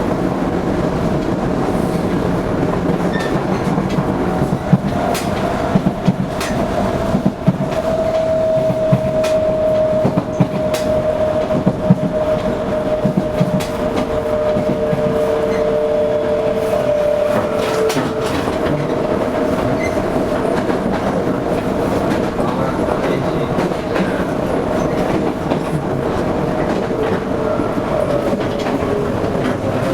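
Toei 5300 series electric train running, heard from inside the car: a steady rolling rumble with a held whine that sinks a little in pitch near the end. Wheels click sharply over rail joints in the first half.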